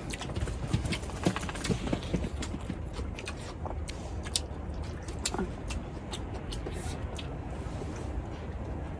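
Irregular small clicks and taps, many in quick succession in the first few seconds and sparser after, over a steady low rumble.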